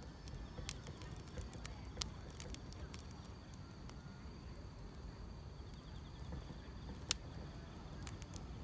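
Wood fire crackling with scattered sharp pops, one louder pop about seven seconds in, over a low rumble, while grass insects keep up a faint high trill.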